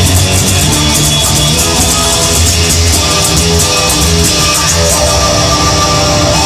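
Instrumental passage of a rock song: guitar over bass and drums, with a steady cymbal beat that drops away about five seconds in.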